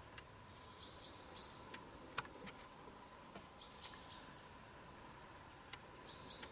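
Quiet woodland morning air with a songbird calling: a short, high, level whistle, three times, one every two to three seconds, with a few faint ticks between.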